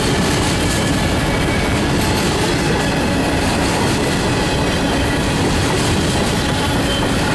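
Freight cars (covered hoppers and a tank car) rolling past close by: steel wheels running on the rails in a steady, loud rumble that does not let up.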